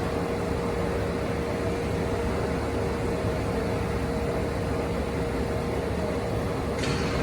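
Steady ice-rink background noise: a low rumble and an even hiss under a constant hum. A short hiss rises near the end.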